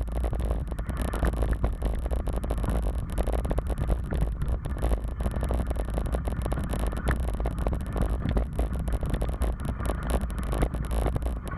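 Wind buffeting the microphone of a moving bicycle ride as a steady, fluttering low rumble, with continual rattles and scrapes from the bike running over the path.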